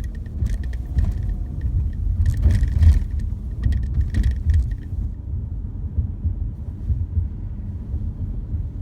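Low, uneven rumble of road vehicles, with faint clicking in the first half.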